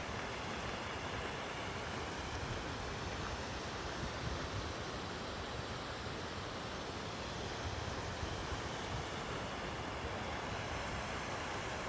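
Mountain stream or waterfall rushing, a steady, even flow of water with no breaks.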